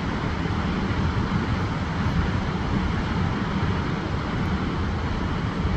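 Huka Falls on the Waikato River: a steady, deep rush of fast water pouring over the falls.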